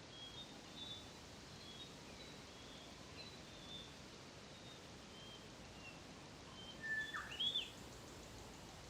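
Wild birds calling: scattered short, high chirps throughout, and a louder call about seven seconds in, with a falling note and then a quick rising-and-falling one, over a faint steady background hiss.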